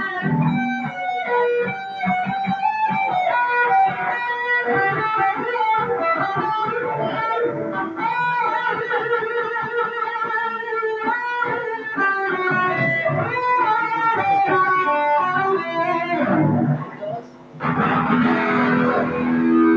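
Electric guitar playing quick runs of single notes. Near the end a louder, distorted chord is struck and left ringing.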